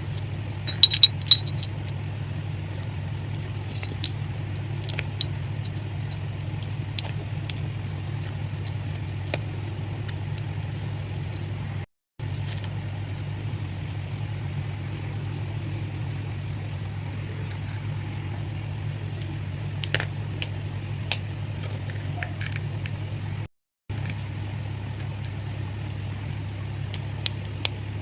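Pieces of chalk clicking and crunching as they are broken and crushed, as scattered sharp clicks (a quick cluster about a second in) over a steady low hum. The sound drops out briefly twice.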